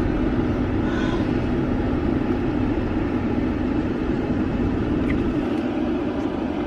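Steady hum of a car heard from inside its cabin, the engine running.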